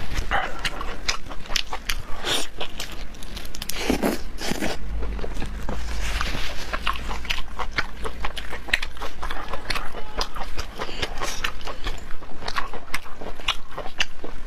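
A person chewing and biting food, with many short sharp clicks, several a second.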